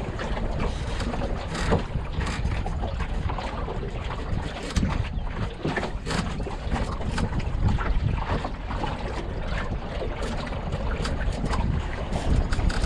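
Wind buffeting the microphone in a steady low rumble, with frequent short splashes and slaps of water as an Enterprise sailing dinghy moves through the water.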